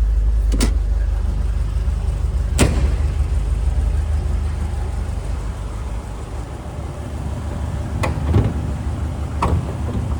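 The MGB GT V8's Rover 3.5-litre aluminium V8 idling with a steady low rumble, with a few sharp clicks and knocks over it.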